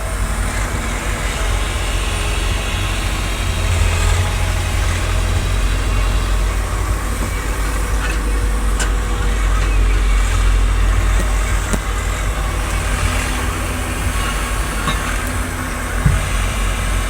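Tractor engine running steadily with a deep, continuous rumble; a single short knock sounds near the end.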